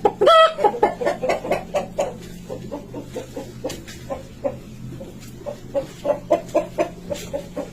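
Chickens clucking, many short calls several a second, with a louder drawn-out call about half a second in, over a steady low hum.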